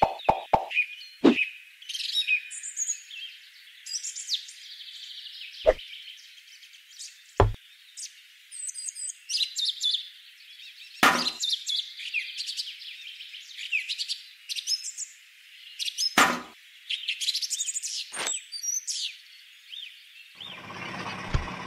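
Birds chirping and trilling throughout, with several sharp knocks spread through. A small motor starts running with a steady hum near the end.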